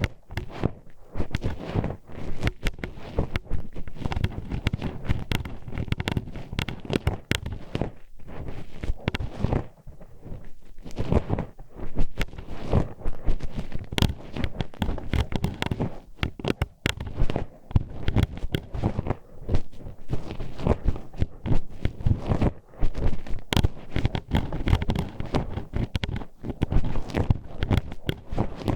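Metal hairpin poked and scraped inside the ear of an ear-shaped ASMR microphone, giving close, irregular clicking and clacking with dull low thumps and rubbing from the mic being handled.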